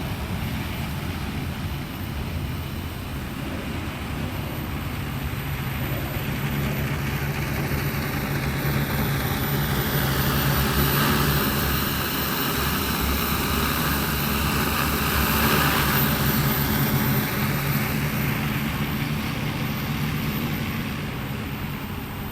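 Propellers of a 15-litre multirotor crop-spraying drone in flight: a steady whirring hum that swells toward the middle and eases off again, its higher whine dipping in pitch and rising back.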